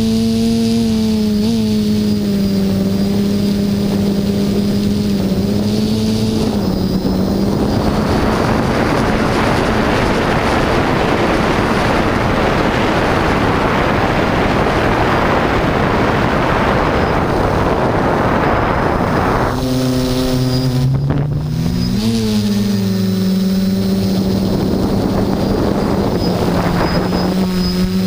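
HT-FPV Hoverthings quadcopter's electric motors and propellers humming at a steady pitch. For the middle stretch the hum is swamped by wind rushing over the microphone. Near the end the hum returns, dips in pitch and climbs back.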